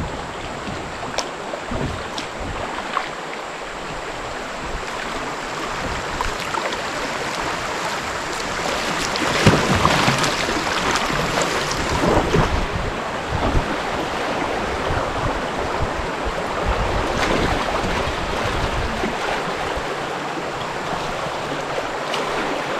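Creek water rushing steadily over rapids, growing louder about nine seconds in, with a few light knocks.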